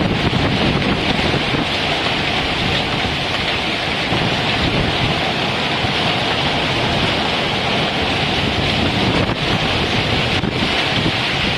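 Hailstorm: hail and heavy rain pelting down in a dense, steady hiss, with wind.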